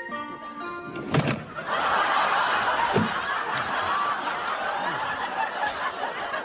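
A short music phrase ends about a second in with a thud, and a studio audience then laughs steadily.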